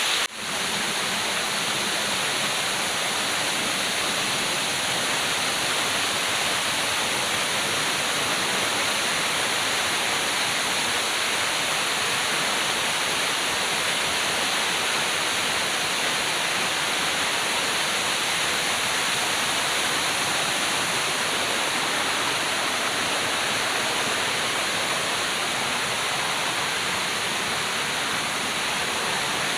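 Waterfall pouring, a steady, even rush of falling water that dips out for a moment just after the start.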